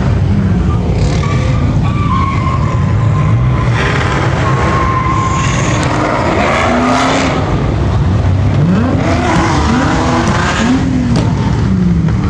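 Car engines revving up and down over a heavy rumble, with tyres squealing and skidding, as in burnouts or donuts.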